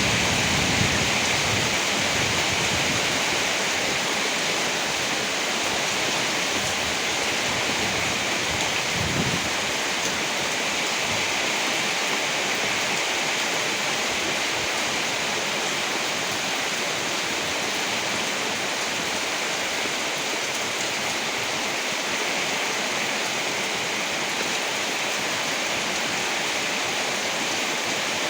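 Heavy rain falling steadily, an even hiss with no break, with a brief low rumble at the very start and another about nine seconds in.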